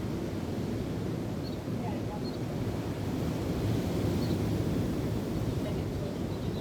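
Wind and waves washing steadily, with wind rumbling on the microphone. A few short, faint bird chirps come through high above the noise.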